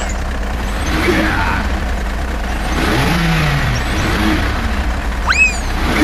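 A steady low engine-like rumble from a truck, with a short rising whistle about five seconds in.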